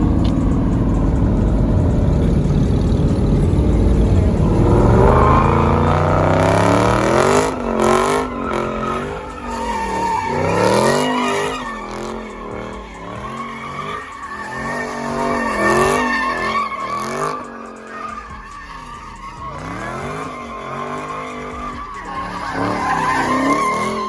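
A car doing donuts: its engine revs up and then repeatedly rises and falls in pitch as the throttle is worked, with the tires squealing against the pavement.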